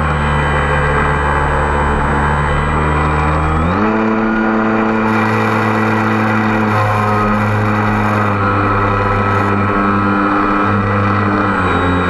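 Camera drone's electric motors and propellers running with a steady hum whose pitch steps up sharply about four seconds in and shifts again later, as the motors change speed to hold the aircraft against strong, gusty wind.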